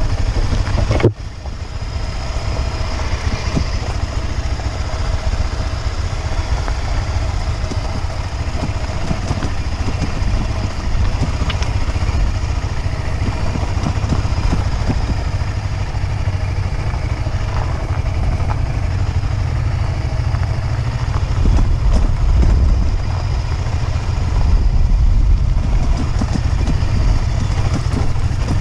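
Motorcycle engine running steadily while riding, with a heavy low rumble on the helmet-camera microphone. The sound drops sharply for a moment about a second in.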